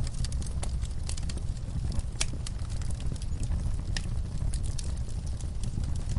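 Fire crackling: irregular sharp pops many times a second over a steady low rumble, with two louder pops about two and four seconds in.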